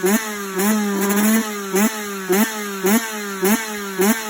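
Engine running at a steady idle, blipped in short, sharp revs at an even pace of a little under two a second, the pitch jumping up and falling back each time.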